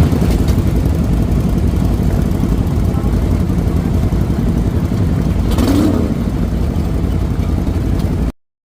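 Motorcycle engines running with a steady low rumble and a brief swell a little past the middle, cutting off suddenly near the end.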